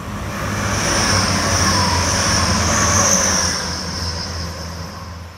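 A train passing nearby, growing louder for about a second, holding, then fading, with a steady high whine over a low hum. The sound cuts off abruptly at the end.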